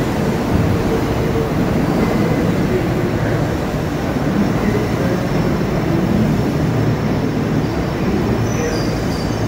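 Kintetsu Ise-Shima Liner limited express train moving along an underground station platform: a steady, loud rumble of wheels and running gear on the rails.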